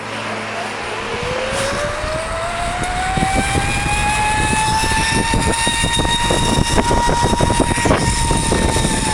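Zipline trolley pulleys whining along the steel cable, the pitch rising for the first five seconds as the rider picks up speed, holding, then starting to drop near the end as he slows. Wind buffets the microphone throughout.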